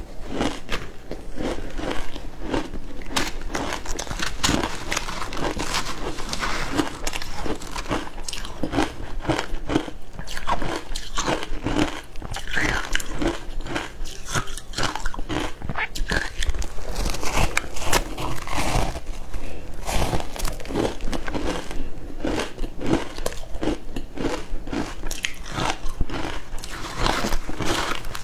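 Frozen matcha ice being bitten and chewed: a continuous run of irregular, crisp crunches.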